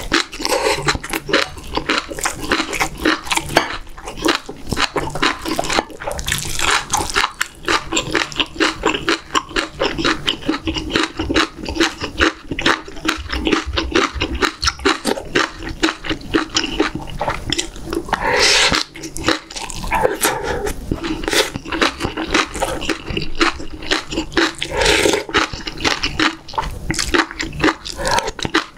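Close-miked eating sounds: steady wet chewing and lip smacking with many small mouth clicks as mouthfuls of rice and stew are taken and chewed.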